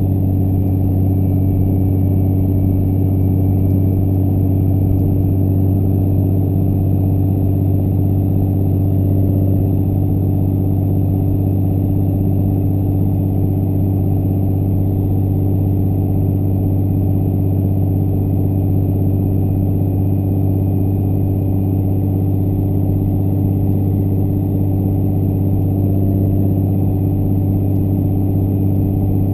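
Compound-turbocharged 5.9 L Cummins inline-six turbodiesel pickup truck driving at a steady engine speed, a constant drone that does not rise or fall.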